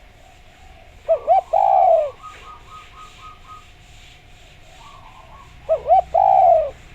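Derkuku (spotted dove) cooing: two call phrases, one about a second in and one near the end, each two short coos followed by a longer, slightly falling coo. This is the cooing played as a lure call to get other derkuku to answer.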